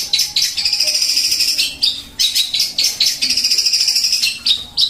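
Eurasian tree sparrow (burung gereja) singing loudly: runs of short chirps that break into two long, fast rattling trills, about a second each.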